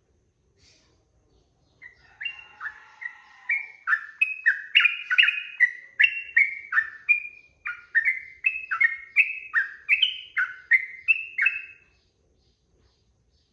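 Sooty-headed bulbul (trucukan) singing a long, unbroken run of quick notes that jump up and down in pitch. The run starts about two seconds in and stops about a second and a half before the end.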